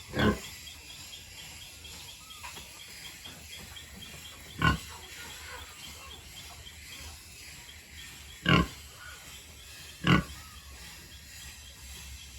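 Pigs giving four short, loud calls a few seconds apart, the last two close together.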